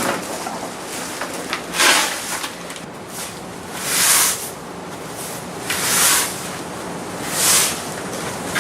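A shovel scraping over hard ground while debris is cleared, in short strokes about every two seconds.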